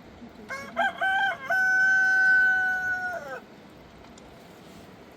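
A rooster crowing once: a few short rising notes, then a long held note that drops off at the end, lasting about three seconds.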